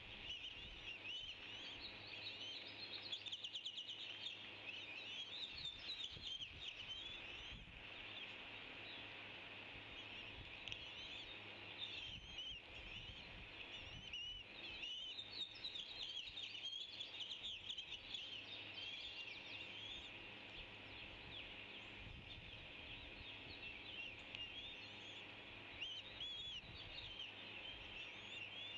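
A flock of birds chirping and chattering together, many short calls overlapping without a break.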